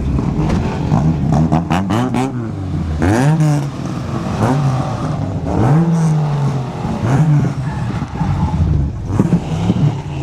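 Car engines revving repeatedly, the pitch rising and falling several times, with a quick run of sharp cracks about one and a half to two seconds in.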